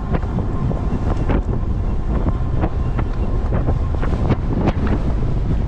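Strong headwind buffeting the microphone of a rider on a moving e-bike: a loud, low rumble broken by frequent short crackles.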